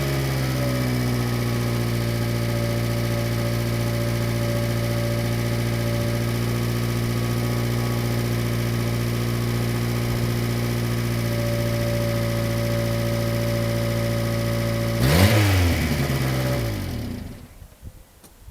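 Subaru Sambar Dias's EN07 660 cc four-cylinder engine idling steadily, settling from a rev at the start. About fifteen seconds in it is revved once briefly, then it is switched off and runs down to quiet near the end, with a couple of faint ticks.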